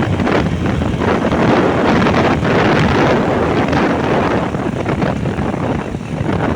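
Wind buffeting the microphone on a moving motorbike: a loud, gusting rush of noise over the ride's road and vehicle noise.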